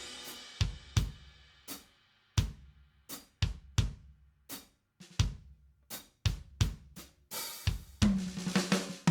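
Drum kit from a rock backing track playing a sparse intro: separate kick, snare and cymbal hits with short silences between them. A cymbal swells about seven seconds in, and low sustained notes join near the end as the band comes in.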